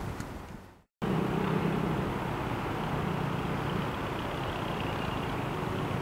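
Steady low engine hum over a noisy background. It fades out within the first second, breaks off into silence, then comes back at a constant level for the rest.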